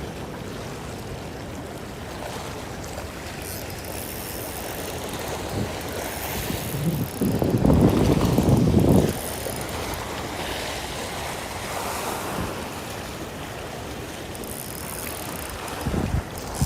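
Steady rush of a typhoon-swollen river with wind buffeting the microphone, swelling louder for about two seconds roughly seven seconds in.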